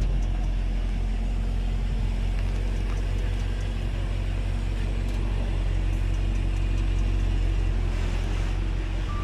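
A car running with a steady low rumble of engine and road noise.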